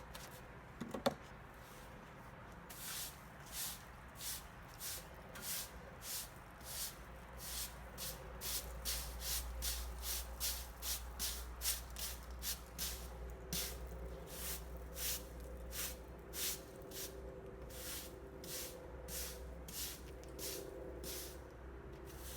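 A broom sweeping sunflower seed shells across a patio: repeated swishing strokes, about one and a half to two a second, after a single sharp knock about a second in.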